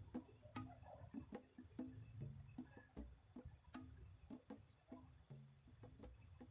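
Faint, irregular clicks and taps, about two or three a second, over a steady high-pitched insect drone.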